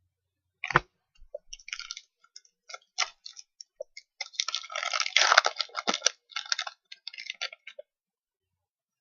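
Trading cards being handled: irregular clicks and crinkly rustling, with a sharp click about a second in and denser rustling around five seconds in, stopping shortly before the end.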